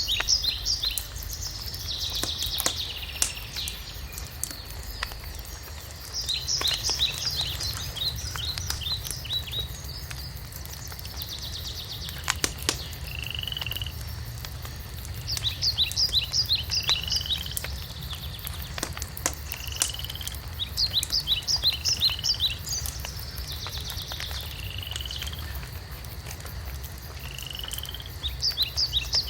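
A songbird repeating a phrase of quick high notes every several seconds, with short single whistled notes in between. Under it a wood fire crackles, with occasional sharp pops and a low rumble.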